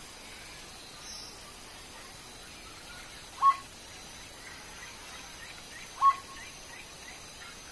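A bird calling outdoors: two short, sharp calls about two and a half seconds apart, over a steady hiss, with faint chirping behind.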